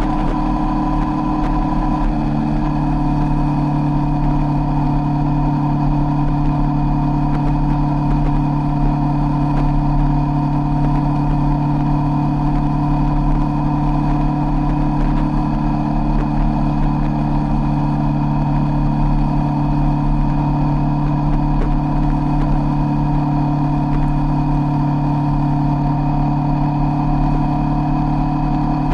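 Sport motorcycle engine running at a steady cruising speed, a constant drone that barely changes in pitch, with a slight shift in revs about two seconds in.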